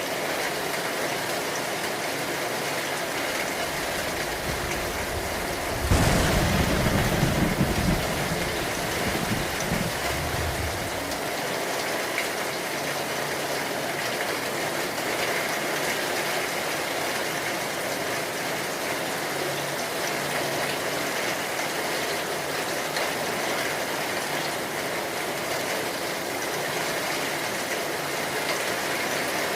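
Steady rain falling throughout. About six seconds in, a clap of thunder breaks in suddenly as the loudest sound, rumbling low for about two seconds and dying away over the next few.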